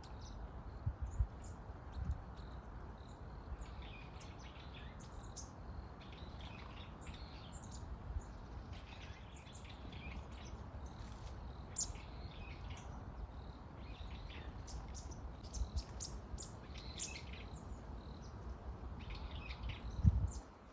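Small songbird chirping over and over in short, high-pitched calls, with a steady low rumble underneath and a low thump near the end.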